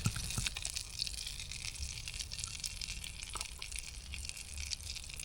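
Campfire crackling: a steady hiss with many small crackles.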